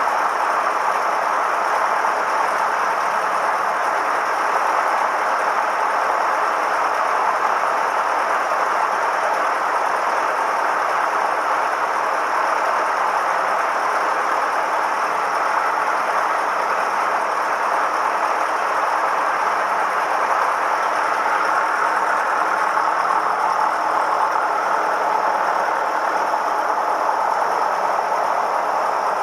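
Cessna 172M's four-cylinder Lycoming O-320 piston engine and propeller running steadily after a start.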